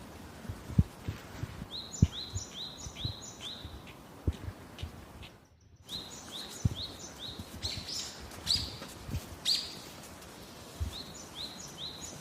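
Cockatiels chirping in three runs of short, repeated chirps, about four a second, over faint low knocks.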